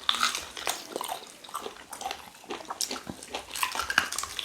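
Wet eating sounds from cow tail pepper soup: chewing and slurping, with a quick run of short smacks and clicks.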